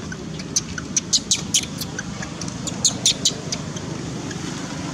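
Baby pigtail macaque giving short, very high-pitched squeaks in quick clusters about half a second, a second and three seconds in, over a steady low background hum.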